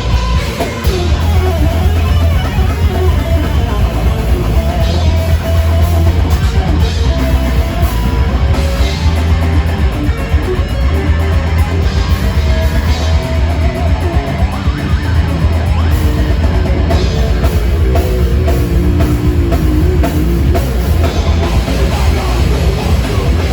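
A heavy metal band playing live: distorted electric guitars, bass and drum kit, loud and dense throughout.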